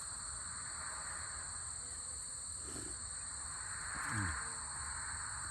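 Steady, continuous chirring of insects such as crickets. A brief falling sound comes about four seconds in.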